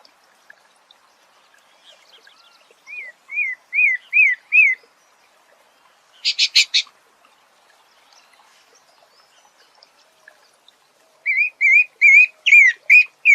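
A songbird singing a phrase of about five repeated arched whistled notes, then a quick burst of four harsh, buzzy notes, and near the end a faster run of the same whistled notes.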